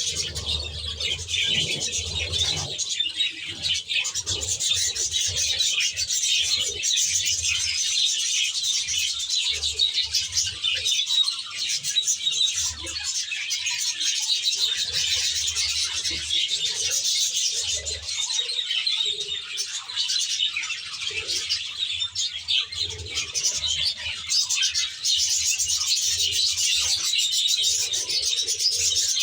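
A flock of budgerigars chattering and warbling continuously, many birds' chirps overlapping, with intermittent low thumps underneath.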